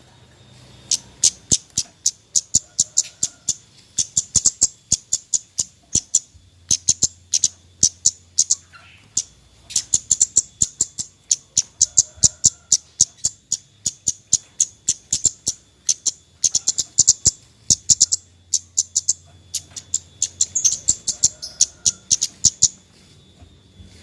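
Kemade bird calling a rapid string of sharp, high 'cret-cret' chips, several a second, in runs with brief pauses.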